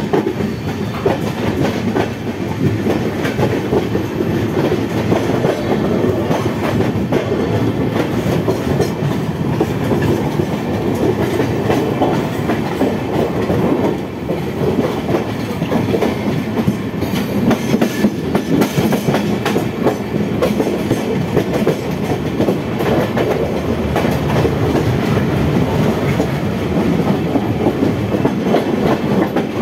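Running noise of a moving train heard from an open window of one of its coaches: a steady rumble of wheels on rails with a quick clickety-clack over rail joints, dipping briefly about halfway through.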